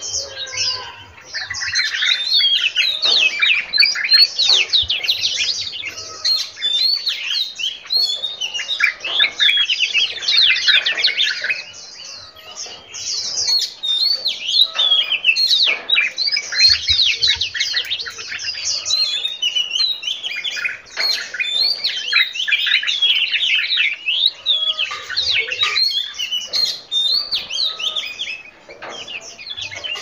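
Several birds chirping and singing over one another, a dense chorus of quick, high chirps and whistles, with a short lull about twelve seconds in.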